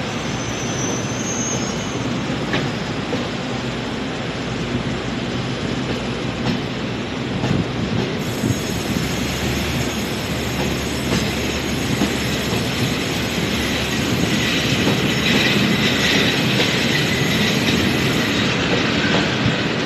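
Freight train of covered wagons rolling past at low speed as it pulls out: steady wheel-on-rail rumble with a few clacks over rail joints, growing louder partway through, and a high wheel squeal in the latter part.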